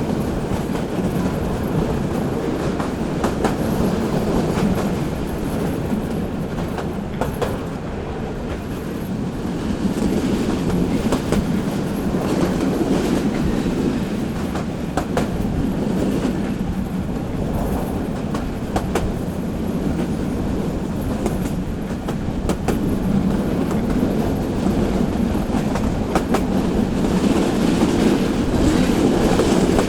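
Local passenger train running along the track: a steady rumble of wheels on rail, with a sharp click now and then over rail joints.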